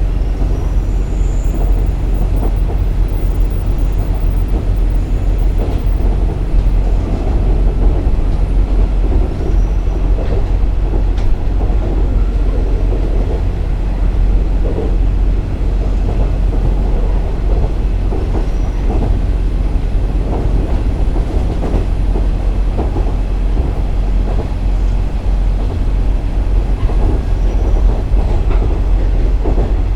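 KiHa 47 diesel railcar running along the line: a steady low rumble with scattered knocks and clicks from the wheels on the track.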